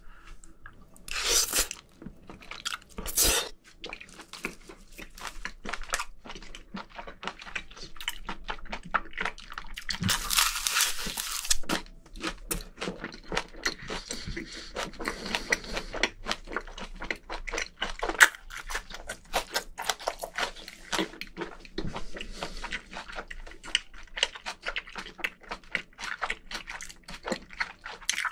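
Close-miked chewing of a mouthful of squid dipped in red chili sauce: a steady run of wet crunches and mouth clicks. There are louder bursts about a second and a half in, about three seconds in, and again between ten and twelve seconds.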